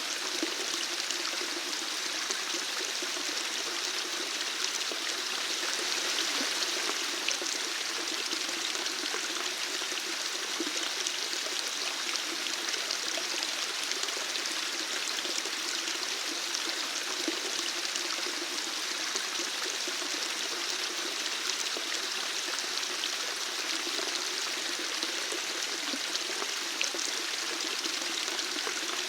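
Water flowing steadily in an even, unbroken rush.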